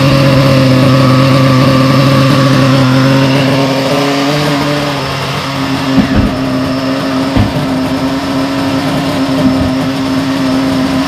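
Novarossi Mephisto nitro engine running at a steady idle on its first tank of break-in. About four to five seconds in its note wavers and drops and it runs a little quieter, with a couple of short knocks after that.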